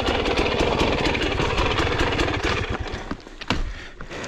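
Dirt bike engine running steadily at low revs, then dropping away about three seconds in, followed by a few sharp clicks or knocks.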